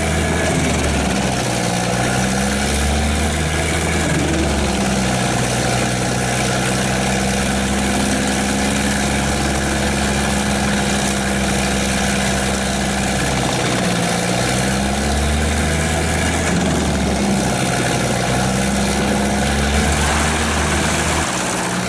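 Tracked drum wood chipper running: its engine runs steadily with the chipping drum and feed working, under a dense grinding noise. The engine note shifts up and down several times.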